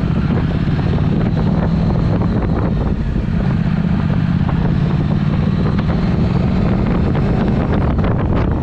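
Triumph Speed Twin's 1200 cc parallel-twin engine running steadily through a Vance & Hines exhaust at an even pitch, with wind noise on the microphone.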